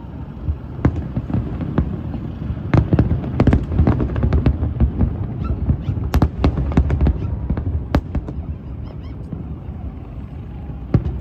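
Fireworks going off: a quick, irregular run of sharp pops and cracks from about three seconds in to about eight seconds, with a few single pops before and after, over a low steady rumble.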